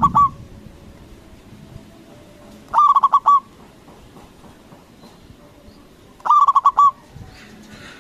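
Zebra dove (perkutut) singing its staccato cooing song: two short phrases of quick pulsed coos about three and a half seconds apart, with the tail of a previous phrase at the very start.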